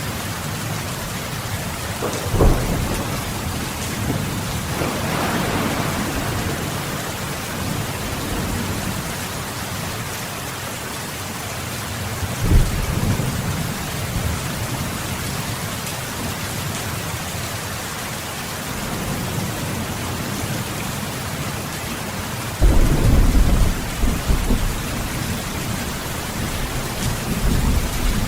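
Steady rain falling, with deep rumbles of thunder rolling in several times: about 2 seconds in, about 12 seconds in, a longer and louder roll a little after 22 seconds, and another near the end.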